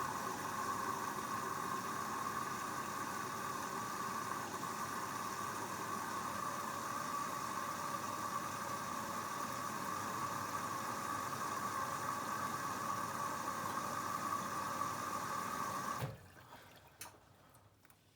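Hoover Dynamic Next washing machine filling with water at the start of its Rapid 14' programme, a steady rush of water through the inlet. It cuts off suddenly about 16 seconds in as the inlet valve closes, followed by a few faint clicks.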